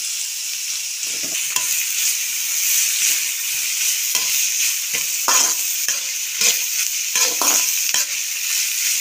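Sliced onions and curry leaves sizzling in hot oil in a metal kadai, with irregular scrapes and knocks of a metal spatula stirring them.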